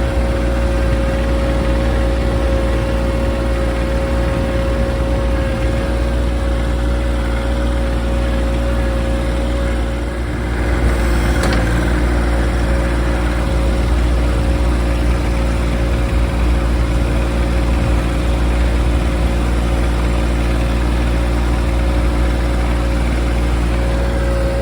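John Deere 2025R compact tractor's three-cylinder diesel engine running steadily under way, with a steady whine above the engine note.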